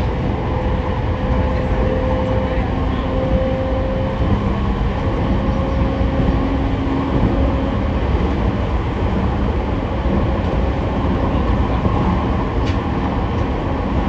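Running sound inside a JR East E231 series commuter train car: a steady rumble of wheels on track, with a faint steady hum over it as the train runs between stations.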